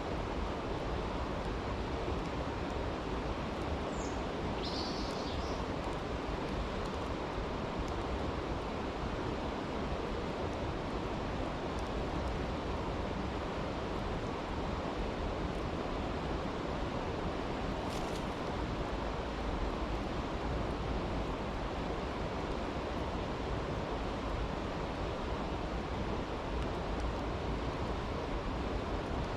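A creek rushes steadily while a campfire crackles faintly now and then, with one sharper pop about eighteen seconds in.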